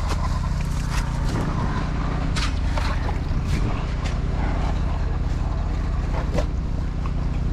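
Engine running steadily at a constant speed, with a few short scrapes and knocks on top near the middle and end.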